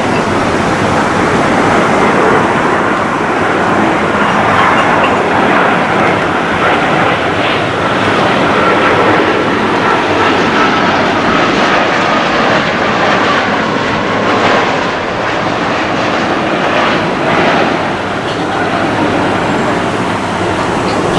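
Boeing 787-9 Dreamliner jet engines passing close by: loud, steady rushing jet noise with a faint whine that slowly falls in pitch through the middle.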